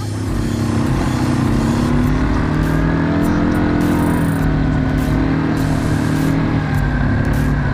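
Quad bike engine running under load, its note rising a little and then holding steady.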